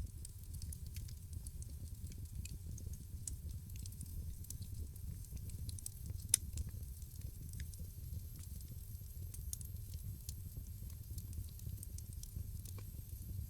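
Wood fire crackling in a fireplace: scattered small pops and snaps over a low, steady rumble of the flames, with one sharper pop about six seconds in.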